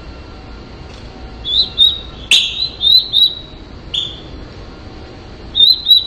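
Short, high bird chirps with quick upward flicks, coming in a run of several from about one and a half to three and a half seconds in, once more at four seconds, and as a pair near the end. A single sharp click just over two seconds in is the loudest sound.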